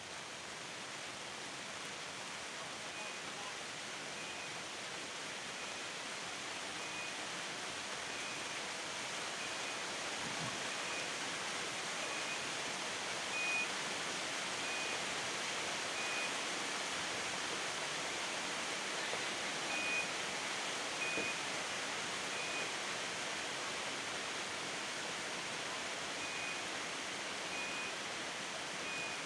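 Steady rain falling, a continuous hiss that slowly grows heavier. A short high chirp repeats about every second and a half through much of it.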